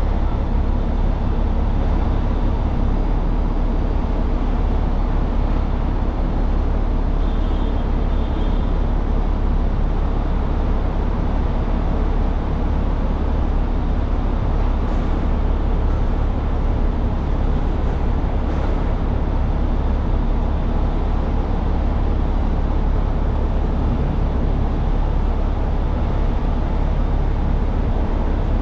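Truck running with a steady low rumble of engine and road noise, unchanging throughout.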